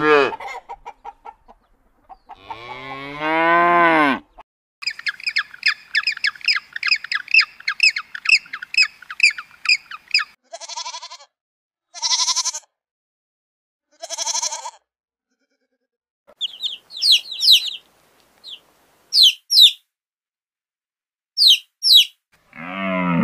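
A cow mooing twice in long, low calls. Then a fast run of short, high calls, three shorter sheep bleats, and several clusters of high, thin chick peeps.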